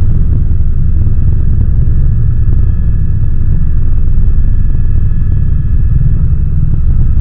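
Helicopter engine and rotor noise heard from inside the cabin: a loud, steady low rumble with faint, steady high tones above it.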